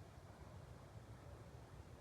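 Near silence: a faint, steady low rumble of background noise.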